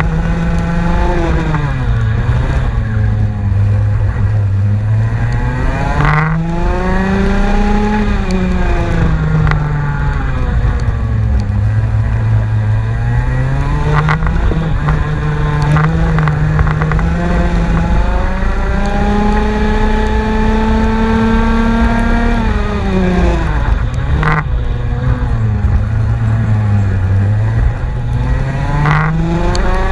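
Race car engine under test, running hard, its note repeatedly rising and falling as it accelerates and slows. A few short sharp cracks cut through it.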